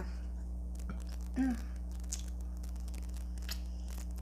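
Quiet mukbang eating noises close to the microphone: scattered small clicks and crackles from mouth and food, with a brief hummed "mm" about a second and a half in, over a steady low electrical hum.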